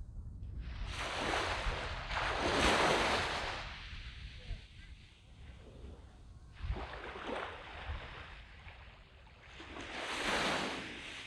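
Small sea waves breaking and washing up a sandy beach, coming in three swelling, hissing surges that each fade away.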